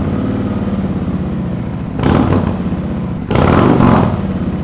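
Harley-Davidson touring motorcycle V-twin running through an S&S Sidewinder 2-into-1 exhaust, idling with a loping beat and revved twice, about two seconds in and again just past three seconds.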